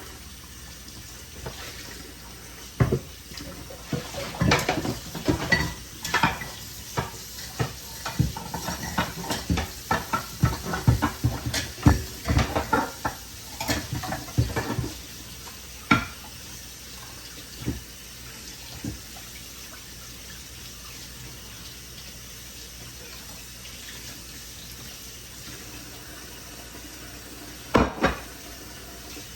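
Dishes and cutlery clattering in a kitchen sink under a running tap. The clatter is busiest through the first half, then mostly the steady run of water, with another couple of knocks near the end.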